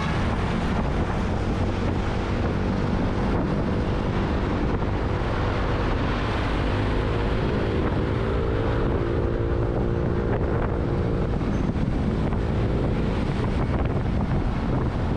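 Wind buffeting the microphone over road noise from a moving motorcycle, with a steady engine hum showing through for most of the middle stretch.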